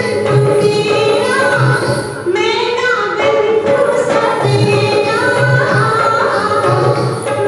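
Female voices singing a song over backing music with a regular low beat.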